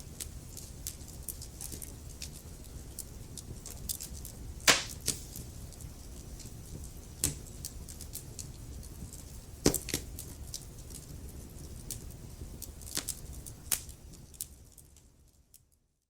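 Wood fire crackling in a fireplace: a low steady rumble of flames with frequent small crackles and a few sharp, louder pops, two of them standing out. It fades away to silence near the end.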